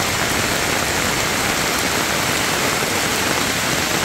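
Steady, loud rainfall.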